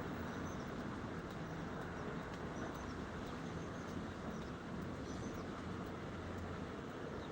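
Steady outdoor background rumble with faint, short, high bird chirps every second or two.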